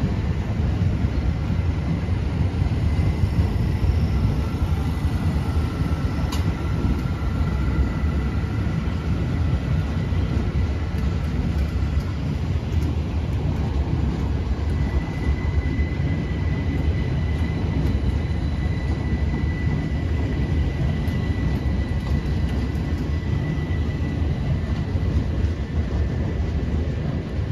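Class 387 electric multiple unit running slowly away over the station pointwork: a steady low rumble of wheels on track, with faint thin high whines held through it and a single sharp click about six seconds in.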